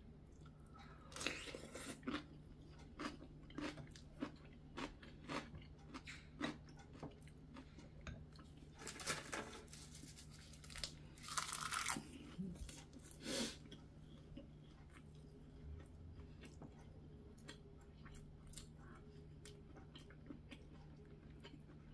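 A person chewing crunchy food close to the microphone, starting with a piece of stuffed cucumber kimchi: a series of short, sharp crunches, loudest about a second in and again in a cluster around nine to fourteen seconds in.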